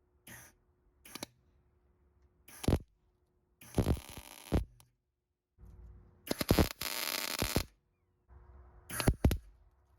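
MIG welder tack welding washers onto a bolt-and-nut body: about six short bursts of arc crackle, the longest around four seconds in and a two-second weld a little after six seconds in, with a faint hum in the pauses.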